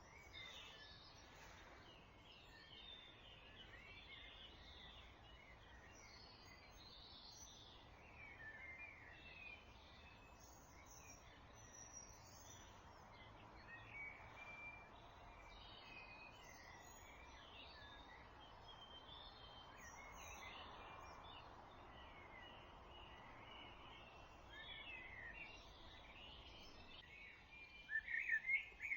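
Dawn chorus: several songbirds sing faint overlapping phrases over a low, steady background noise. One bird sings louder near the end.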